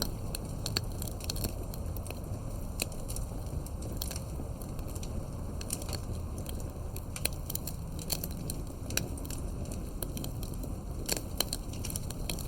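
Wood campfire crackling: irregular sharp pops and snaps over a low, steady rumble of burning, with a cluster of louder pops near the end.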